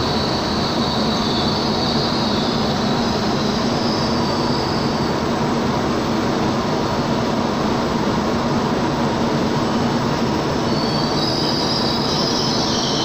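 Double-deck regional passenger train rolling slowly past the platform: a steady rumble with a high wheel squeal that fades in the middle and comes back stronger near the end.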